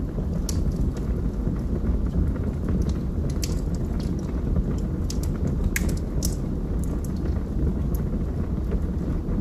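Logs burning in a fireplace: a steady low rumble of flames with sharp, irregular crackles and pops from the wood.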